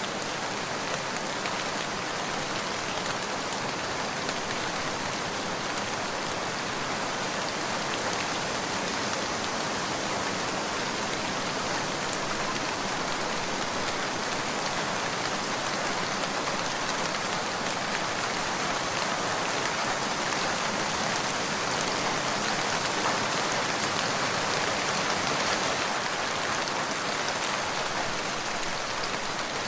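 Steady rain falling on a surface, an even patter of drops.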